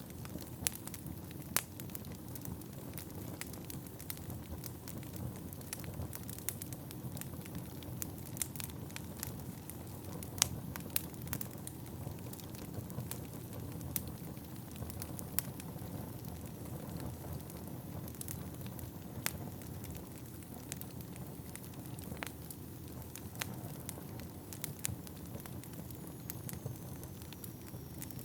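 Wood fire burning in a fireplace: a steady low rumble of flames with frequent sharp crackles and pops from the burning logs, one louder pop about ten seconds in.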